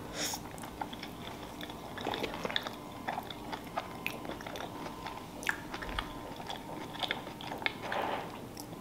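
Close-miked chewing of a mouthful of sushi roll: soft wet mouth clicks and smacks, scattered through the chewing.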